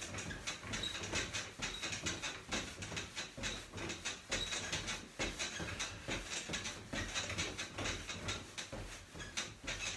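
A small trampoline squeaking and thumping in a quick, steady rhythm as someone runs in place on it; the old equipment is noisy and squeaky.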